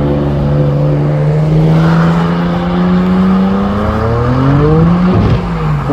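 Nissan Skyline R32 GT-R's twin-turbo straight-six accelerating hard, its note rising steadily in pitch, then dropping sharply about five seconds in.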